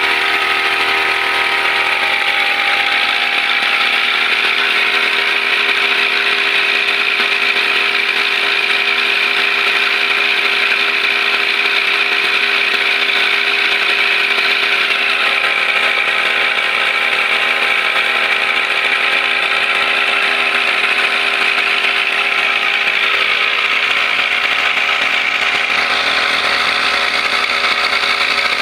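Brush cutter engine running steadily at high speed, its pitch shifting slightly a few times.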